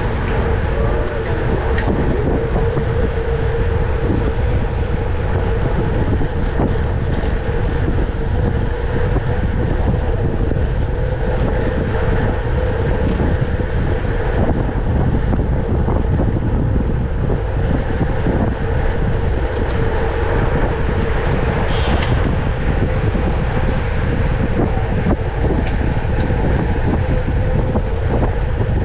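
Wind rushing over the microphone of a camera carried by a cyclist riding at speed, with a steady hum underneath. A brief high hiss cuts through about three quarters of the way in.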